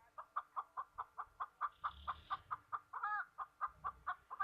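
A bird giving a fast, even run of short clucking calls, about five a second, with one longer call about three seconds in.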